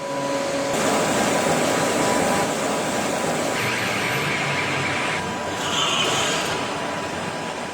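Steady industrial machinery noise, an even rushing din that shifts in character a few times, with a faint steady tone running through it.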